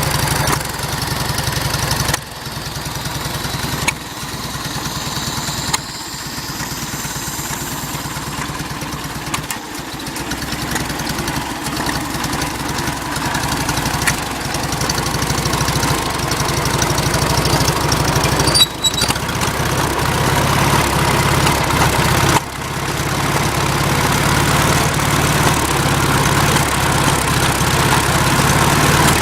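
A Farmall Cub tractor's four-cylinder flathead engine running steadily, broken a few times by a sharp pop followed by a brief dip. These pops are the noise the owner cannot explain.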